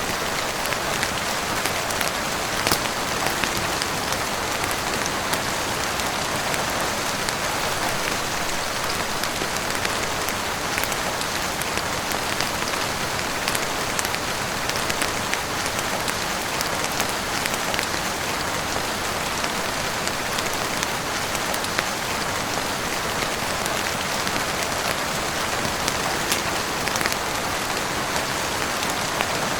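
Heavy rain falling steadily on a roof and windows, an even hiss dotted with many small sharp ticks of drops.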